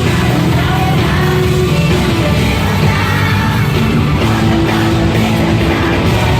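Loud live rock-style music played over a concert sound system during a sound check, with a singing voice over a heavy, steady low end.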